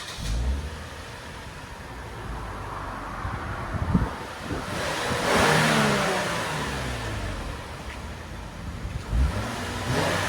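2014 Lexus IS 250's 2.5-litre V6 on its factory exhaust with stock mufflers and resonators, idling and revved a couple of times, the pitch rising and falling with each rev.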